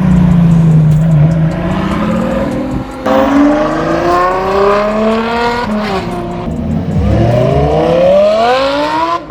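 A high-performance car engine running loud and accelerating: it starts low and steady, then climbs in pitch. It breaks off sharply about three seconds in, climbs again, dips briefly around six seconds, and climbs once more before cutting off abruptly.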